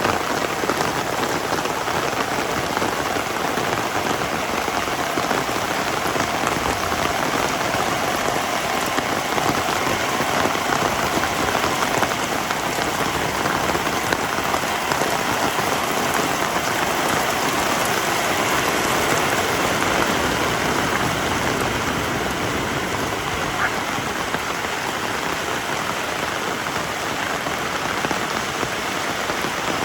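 Heavy rain falling steadily: a dense, even hiss of raindrops on surfaces that stays constant throughout.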